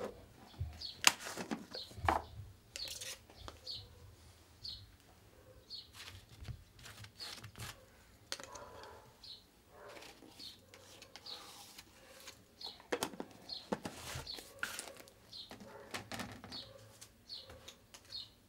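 A small bird chirping over and over, one short high chirp roughly every half second to a second, with scattered clicks and knocks as paint bottles and tools are handled on the table.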